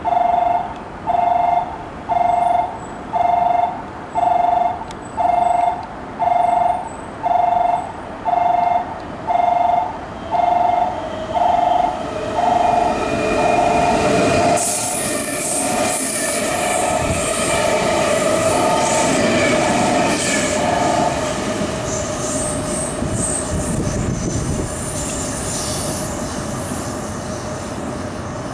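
A station warning tone beeps two notes at once, about once a second, while a Semboku Rapid Railway 12000-series limited express EMU approaches. About halfway through, the train passes through the station at speed, its wheels rumbling and squealing on the curved track. The noise then slowly fades.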